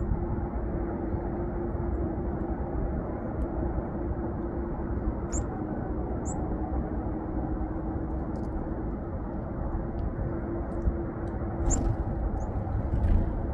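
Several short, very high chirps from small birds, heard four times over a steady low background rumble.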